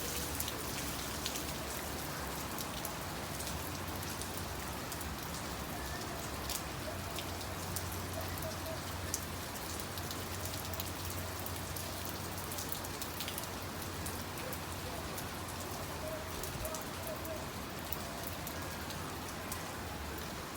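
Steady rain, with many sharp drop ticks over an even hiss and a low steady rumble underneath.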